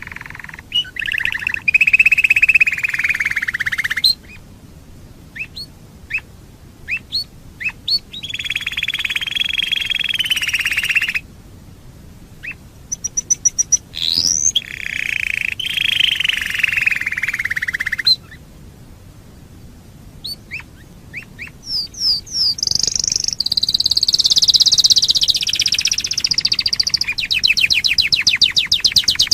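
Domestic canary singing in full voice: long, varied warbling phrases a few seconds each, separated by short pauses with scattered single chirps. Near the end comes a fast trill of rapidly repeated notes.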